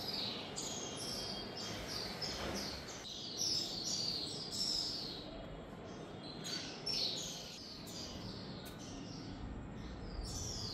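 Small birds chirping: many short, falling chirps overlapping, busiest in the first five seconds and thinning out after, over faint steady background noise.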